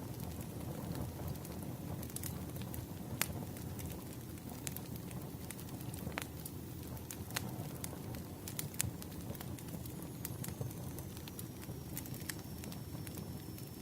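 Campfire burning with a steady low rumble and scattered sharp crackles and pops of the burning wood. A faint high whistle slides slightly down near the end.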